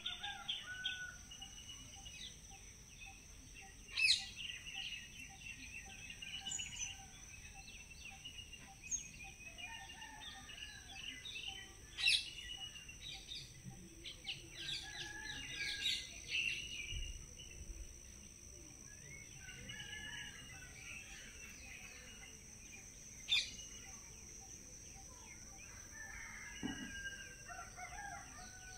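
Small birds chirping and calling over a steady high whine, with three sharp clicks standing out.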